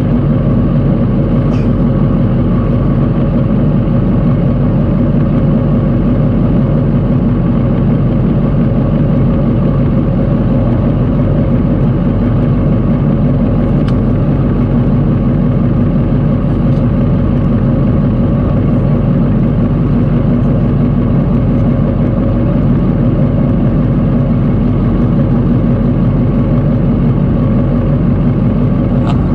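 Suzuki Bandit 600's inline-four engine idling steadily, picked up through the camera mounted on the bike itself.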